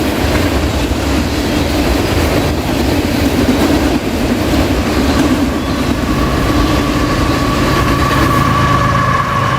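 Intermodal freight cars rolling past, with a steady rumble and wheel clatter over the rails. A steady high-pitched tone joins about six seconds in.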